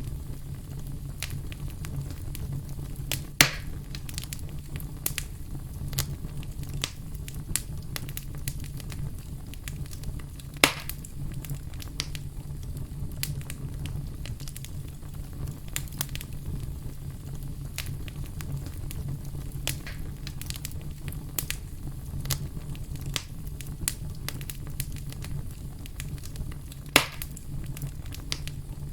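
Wood fire in a fireplace crackling, with many small snaps and three louder pops over a steady low rumble.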